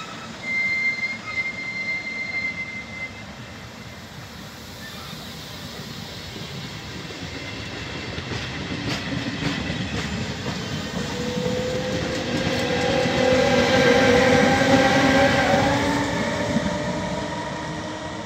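Regional train of coaches rolling past, pushed by its FS E464 electric locomotive at the rear. A high steady squeal about a second in; the wheel rumble then builds and peaks as the locomotive goes by about two-thirds through, with an electric whine rising in pitch as it accelerates, then fades.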